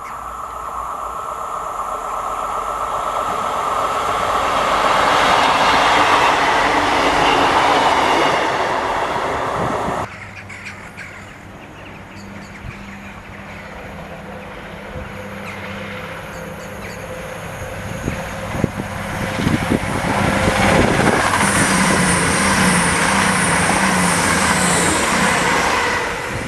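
Rail vehicle running past, in two separate passes with an abrupt cut about ten seconds in. The first builds to a loud peak before the cut. The second rises again and carries a high-pitched squeal near the end.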